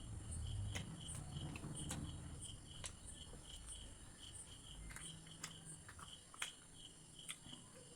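Close-up eating sounds: chewing with sharp wet mouth clicks and smacks every second or so, from someone eating paneer curry with roti. Behind it a cricket chirps in a fast, even rhythm.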